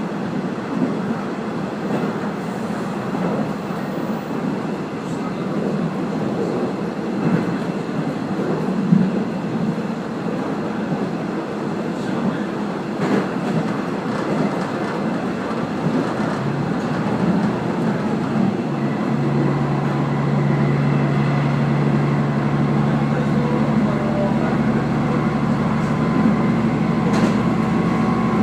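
Running noise of a Kaze-kko diesel railcar (a converted KiHa 48) under way: steady rail and wheel rumble with faint clicks over the rail joints. About two-thirds of the way in, a steady low hum joins and holds.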